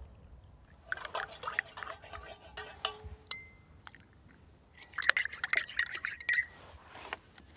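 Milk poured into a ceramic mug of tea, then a metal teaspoon stirring it and clinking against the mug's sides. The quickest run of clinks comes in the second half.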